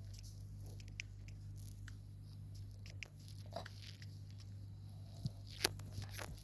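Scattered light taps and clicks over a steady low hum, with a sharper click about five and a half seconds in.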